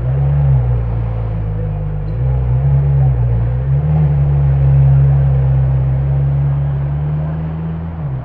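A car engine running at low revs with a deep exhaust drone, its pitch rising and dipping a few times in the first four seconds, then holding steady before dropping away near the end.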